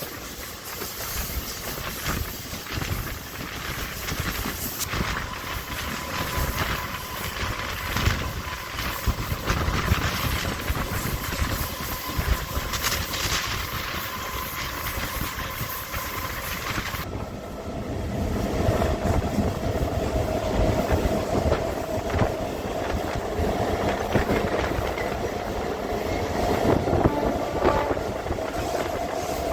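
MEMU electric multiple-unit train running along the track, its wheels clattering over the rail joints. About two-thirds of the way through the sound changes abruptly, turning duller, with a steady whine coming in.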